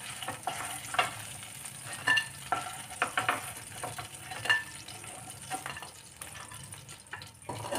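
Flour-coated paneer cubes shallow-frying in hot oil, sizzling steadily, while a spatula scrapes and taps against the pan now and then as the fried pieces are lifted out.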